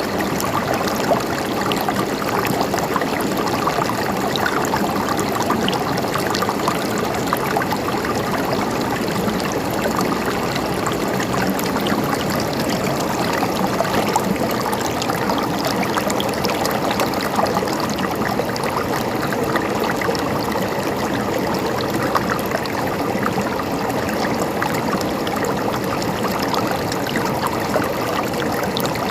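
Shallow stream water trickling and gurgling steadily over its bed, an even splashing with small droplet ticks and no change.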